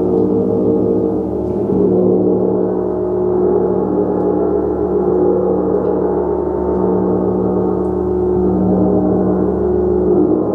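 A gong kept ringing continuously: a dense wash of overlapping sustained tones that swells and ebbs in slow waves, with no distinct strikes standing out.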